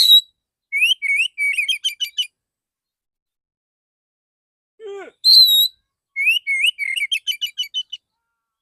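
Male oriental magpie-robin (kacer) singing: a loud whistled note followed by a rapid volley of short chattering notes, the same phrase given twice with silent gaps between. A brief low falling sweep comes just before the second phrase.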